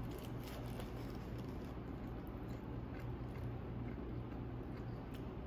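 A person chewing a mouthful of burger with the mouth closed: faint, scattered soft wet clicks over a steady low hum.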